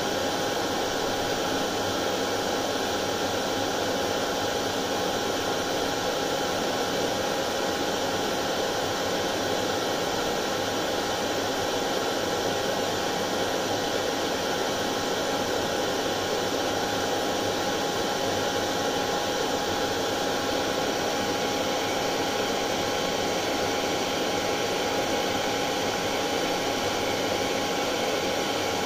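Hair dryer running steadily: a constant whooshing of air with a steady motor hum, unchanging, played as white noise to calm colicky babies to sleep.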